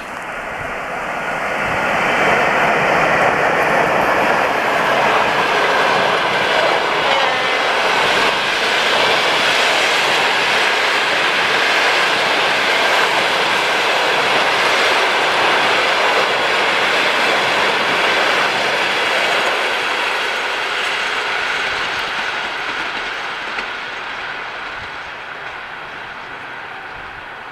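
A ChS7 electric locomotive and its passenger train passing by, wheels running on the rails. The sound swells over the first couple of seconds as the locomotive arrives, holds steady while the carriages run by, then fades over the last several seconds as the train draws away.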